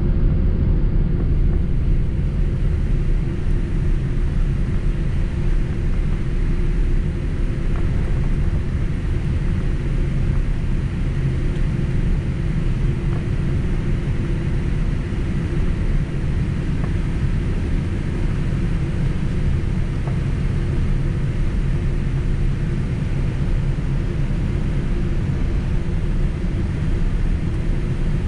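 Steady low rumble of a Boeing 767 jet airliner heard from inside the passenger cabin: engine and airflow noise with a faint steady hum, unchanging throughout.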